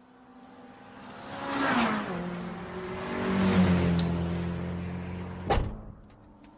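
RC car engine sound unit playing a simulated Nissan GT-R engine: it revs up, drops back and holds a steady note, then gives one sharp backfire pop about five and a half seconds in.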